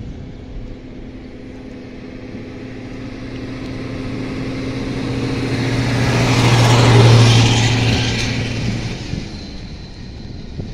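Passenger train passing close by: a steady low hum from the locomotive, with the rumble of the train on the rails, grows louder, peaks about seven seconds in, then fades as it goes past.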